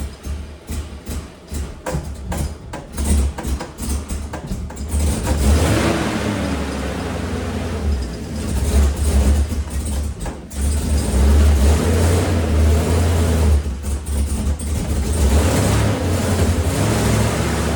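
Chevrolet Silverado's 6.0 LS V8 cranking on the starter in quick even pulses for about five seconds, then catching and running, its revs rising and falling.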